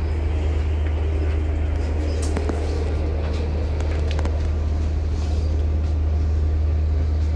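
Ferry engines running: a steady low rumble, with a few faint clicks over it.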